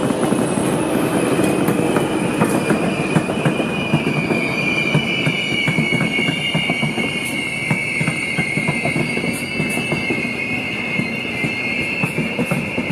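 Locomotive-hauled passenger coaches rolling past on jointed track and points, their wheels giving a high, steady squeal that builds after the first couple of seconds, with irregular clicks and knocks from the wheels over the rail joints under a low rumble.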